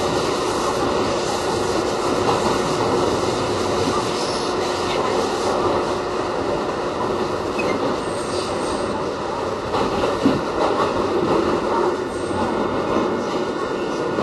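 Westinghouse-built R68 New York City subway car running at speed between stations, heard from on board: a steady, loud rumble of wheels on rail and running gear. A few sharp knocks from the track come about ten seconds in.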